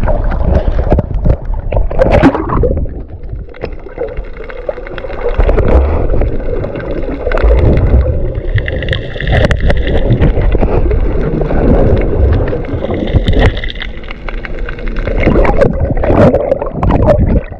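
Water sloshing and gurgling against a camera held at the surface while snorkelling, over a loud, steady low rumble.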